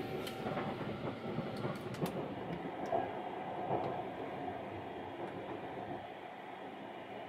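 Sunrise Izumo 285-series sleeper train running, heard from inside a compartment: a steady rumble of the wheels and carriage, with a few light clicks in the first two seconds.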